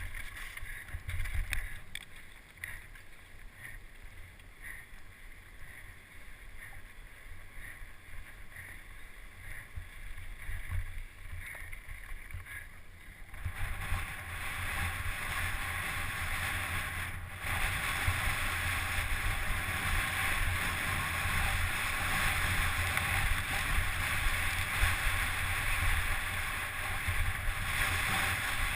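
Wind rushing over the microphone of a mountain bike moving fast downhill, with low buffeting throughout. The rushing noise grows much louder about halfway through as speed picks up.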